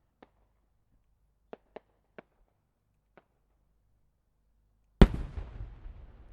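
A few faint sharp pops, then about five seconds in a 10-inch fireworks shell, a multi-pistil chrysanthemum, bursts with one loud boom and a long rolling echo.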